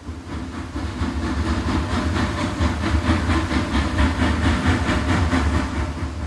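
Train running, a steady low rumble with a fast, even clatter of wheels over rail joints.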